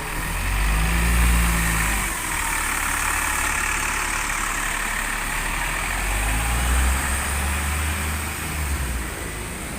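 Diesel bus engines running at low revs as buses move off, over a steady hiss of tyres and rain on a wet street. The engine note swells about a second in and again from about six seconds.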